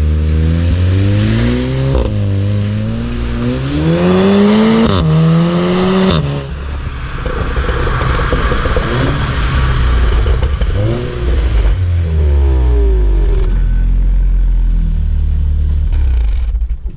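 Volkswagen Golf R's turbocharged 2.0-litre four-cylinder accelerating hard, its pitch climbing and dropping back at upshifts about two, five and six seconds in. A stretch of rough, crackling engine and exhaust noise follows, then a short rise in revs near the end before it settles to a steady run.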